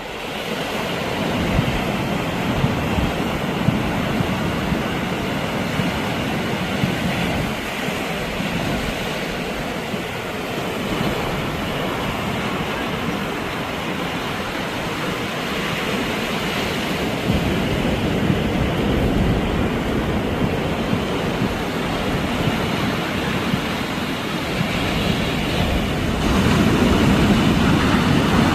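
Sea waves washing onto the shore with wind blowing: a steady rushing noise with a low rumble that swells and eases, a little louder near the end.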